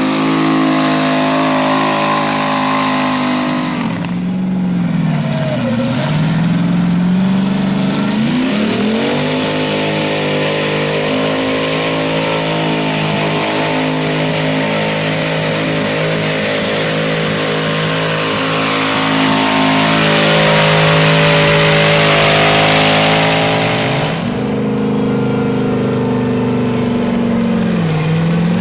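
Modified pulling garden tractor's engine at high revs: its pitch dips and recovers about four seconds in, climbs again and holds high and steady through a long pull, then drops off near the end and dips once more.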